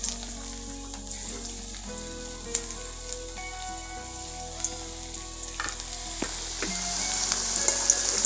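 Raw-jackfruit fritters (enchor bora) frying in hot oil in a kadai: steady sizzling with scattered crackles, growing louder near the end.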